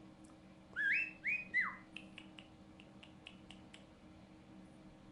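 Cockatiel whistling: two quick rising whistle notes and one falling note about a second in, followed by a run of short, soft chirps and clicks.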